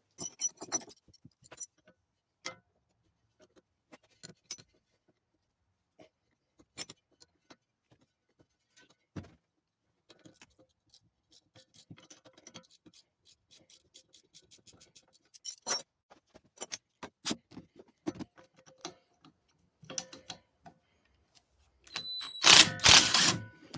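Metal hand tools and fork parts clicking and clinking as the minibike's front fork clamp caps are taken apart: scattered light knocks, growing busier partway through, with a louder, denser burst of noise lasting under a second near the end.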